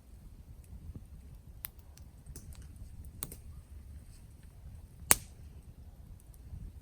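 Wood campfire crackling: scattered sharp pops over a low, steady rumble, with one much louder pop about five seconds in.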